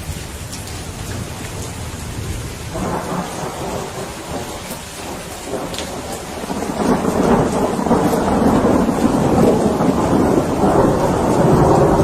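Steady rain hissing, with thunder rumbling low underneath. About seven seconds in, the thunder swells into a louder, long roll.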